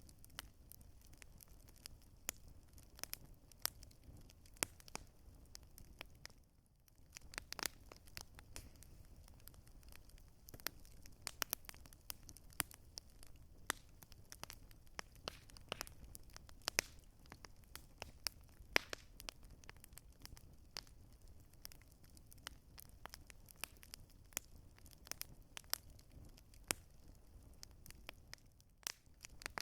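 Campfire crackling: irregular sharp pops and snaps of burning wood over a low steady rumble, briefly dropping away about seven seconds in.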